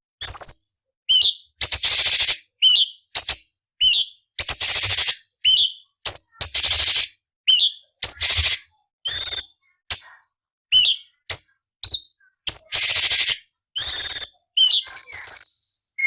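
Orange-bellied leafbird (cucak cungkok) singing a fast run of short notes, about two a second: harsh rasping calls alternating with sharp whistled chirps. A brief high held whistle comes near the end.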